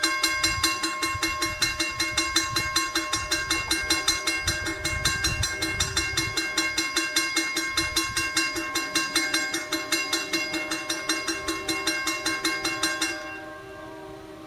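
Railroad grade-crossing bell ringing rapidly at about seven strokes a second, then stopping about thirteen seconds in, leaving fainter steady tones.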